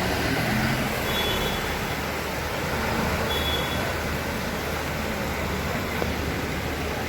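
Steady road-traffic noise with vehicle engines running, and a few brief faint high tones.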